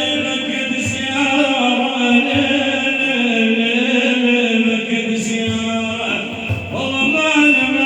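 A male voice singing a madih, an Islamic praise song for the Prophet, in long, slowly bending melodic lines.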